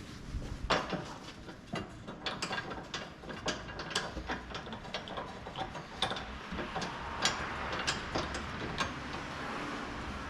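Socket ratchet clicking in quick, irregular runs of ticks as a bolt is turned.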